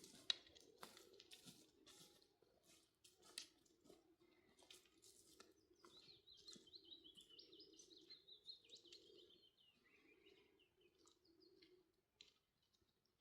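Near silence with scattered faint clicks and rustles, and a faint bird twittering in a quick wavering run from about six seconds in for roughly four seconds.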